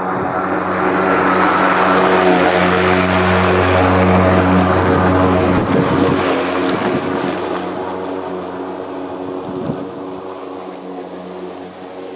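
EGO 56-volt cordless electric lawnmower running with its blade spinning, a steady whirring hum that grows louder over the first couple of seconds and fades away through the second half as the mower moves off.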